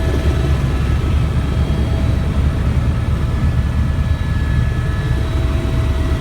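Helicopter running: a steady low rumble of rotor and engine with faint, thin steady whines above it.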